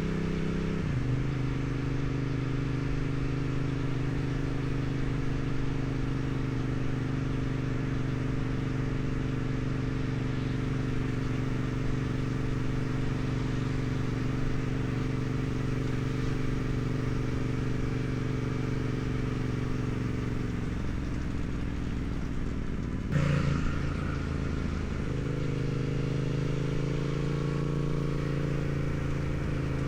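2016 Yamaha MT-07's parallel-twin engine through its stock exhaust, running at a steady, even engine speed. Near the end it eases off for a few seconds, there is one sharp clack, and then it settles back into a steady pull.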